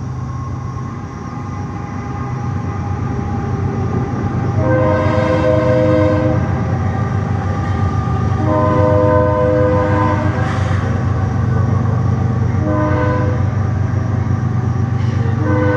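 Train horn blowing the grade-crossing signal over the train's steady rumble, which grows louder as the train approaches: two long blasts, a short one, then another long one starting near the end.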